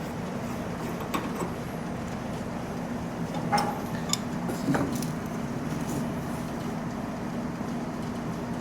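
Steady low hum with a few sharp metallic clicks and knocks from a wrench working a rusted threaded fitting loose.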